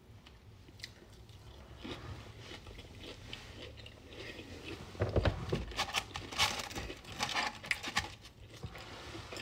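A person eating crispy fried chicken: quiet chewing, then a run of louder crunchy bites and chewing about halfway through.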